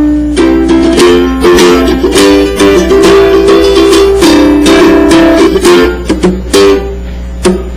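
Solo ukulele playing a melody with plucked notes and strummed chords, no singing. A steady low hum sits underneath.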